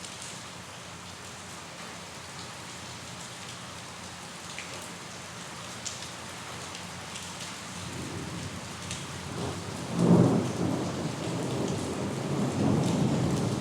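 Steady rain falling, with scattered drop ticks, and a roll of thunder that builds about eight seconds in, cracks loudest about ten seconds in, then keeps rumbling.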